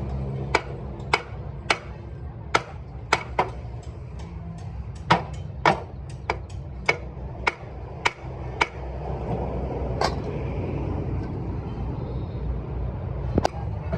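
A hammer striking metal, about a dozen blows at roughly one to two a second. The blows stop for several seconds and then one more comes near the end, over a steady low rumble.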